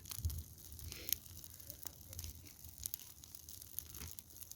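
Bonfire of dry garden debris crackling, with irregular sharp pops and snaps.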